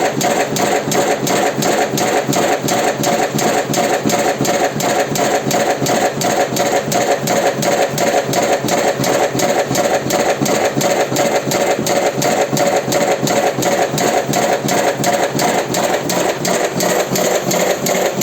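Automatic electric cigarette tube-filling machine running, cycling with an even clatter of about three strokes a second over a steady motor hum; it cuts off suddenly near the end.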